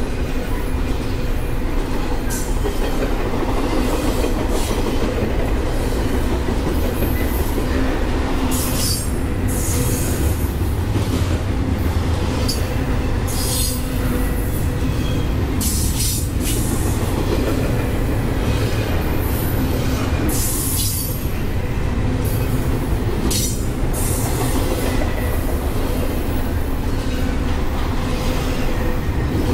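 Double-stack container freight train rolling past close by: a steady rumble of wheels on rail, broken by a string of brief, high-pitched wheel squeals through the middle.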